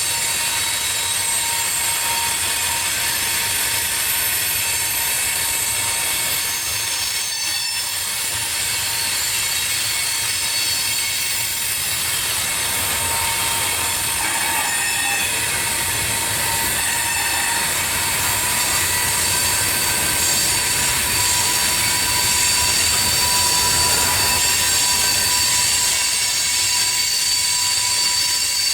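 Freight train rolling past: a steady rolling noise with thin, high-pitched wheel squeal over it.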